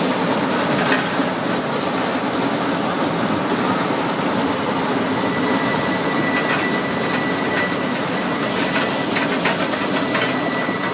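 Steam-hauled tourist train running through woods, heard from an open passenger car as a steady rumble of the cars on the track. A thin high squeal comes and goes from about halfway through, while the train rounds a curve.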